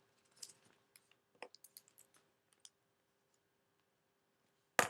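A sheet of origami paper being handled and folded: light, scattered paper clicks and rustles over the first couple of seconds, then a single louder sharp click near the end.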